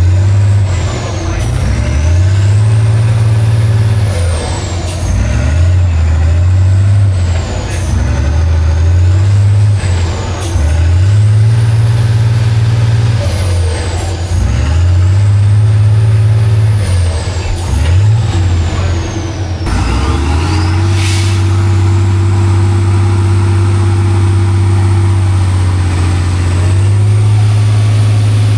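Heavy off-road truck's diesel engine revving up and down again and again under load, with a high whine rising and falling along with the revs and short hisses now and then. About twenty seconds in, the engine settles and holds steady at high revs.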